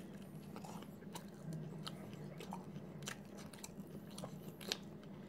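A person biting into and chewing a mouthful of chicken wrap in a soft flour tortilla: faint, irregular mouth clicks, the sharpest one near the end.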